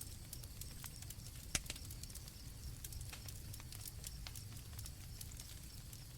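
Campfire crackling, with irregular sharp pops over a low steady rumble and one louder pop about a second and a half in. Crickets chirp faintly and high in the background.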